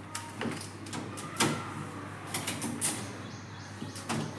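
A few scattered light clicks and knocks from refrigerator door parts and tools being handled during dismantling, over a steady low hum.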